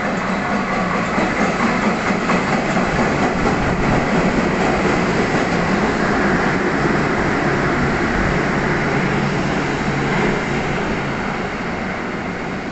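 Freight train passing through on the rails: a steady noise of wheels and cars with a low hum. It grows louder about a second in and eases off near the end.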